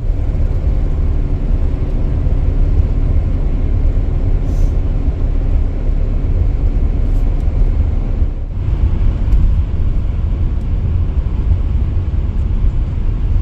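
Vehicle driving on the road, engine and road noise making a steady low rumble, with the tractor and rototiller loaded on the trailer behind it.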